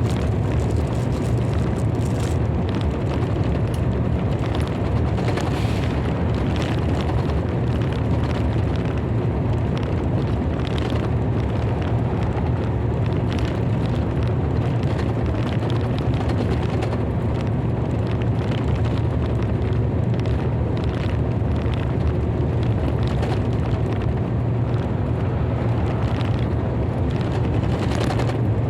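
Thunderstorm noise: a steady, loud low rumble with faint crackling through it and no single clap standing out.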